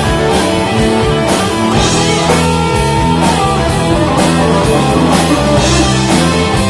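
Live rock band playing an instrumental passage: electric guitars and bass held over a drum kit beating about twice a second.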